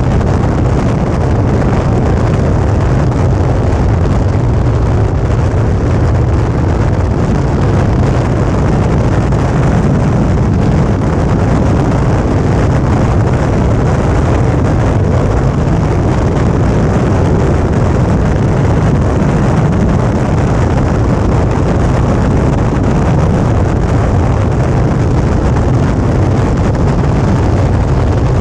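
Suzuki V-Strom 650 motorcycle cruising at an even speed: wind rushing over the microphone, with the steady drone of its V-twin engine underneath.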